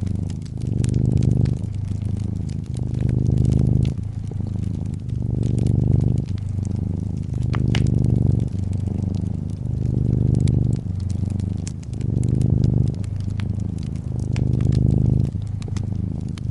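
Domestic cat purring steadily, a low buzz that swells and eases in alternating louder and softer phases with each breath, over the fine snapping crackle of a wood fire in a fireplace.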